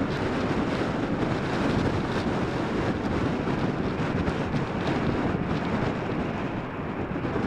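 Strong gusty wind buffeting the microphone, a steady rumbling roar with no clear pitch.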